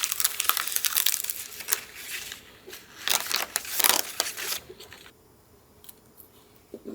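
Paper crinkling and rustling close to the microphone, dense for about two seconds, then a few loud crackling bursts around three to four seconds in before it goes quiet.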